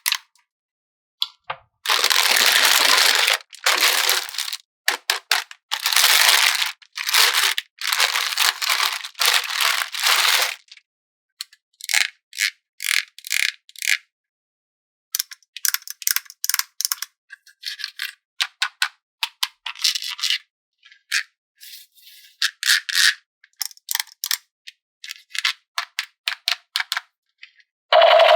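Toy unboxing handling sounds: a run of noisy rustling bursts from packaging for several seconds, then many short plastic clicks and taps as small toy pieces are handled.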